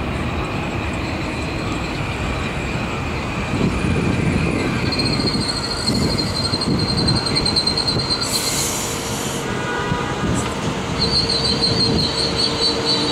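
Metro-North electric multiple-unit commuter train rolling past on the near track into the station, wheels squealing in high, steady tones over the rumble of the wheels on the rails. A higher squeal comes in about five seconds in and again near the end.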